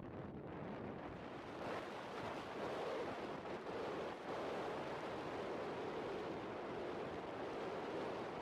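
Wind rushing over the microphone: a steady rushing noise that grows a little louder about two seconds in.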